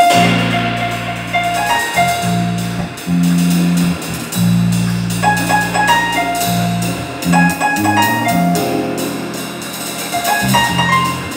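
Jazz quartet playing: long held bass notes under piano figures, with drums and cymbals keeping time.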